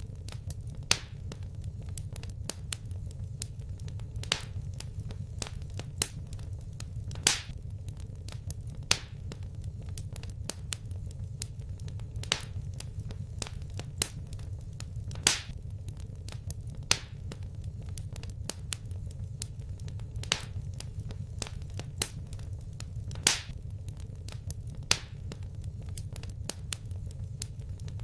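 Wood fire crackling: sharp, irregular pops every second or two, with fainter crackles between, over a steady low rumble.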